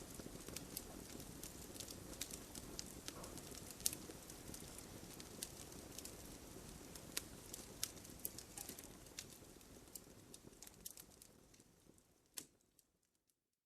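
Campfire crackling: irregular sharp pops and snaps over a low, steady hiss of burning, thinning out and fading to silence near the end.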